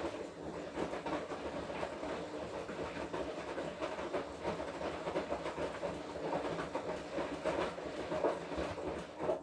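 Washing machine drum turning in a wash cycle, laundry and water tumbling inside with a steady rattling churn. It stops suddenly near the end, as the drum pauses between turns.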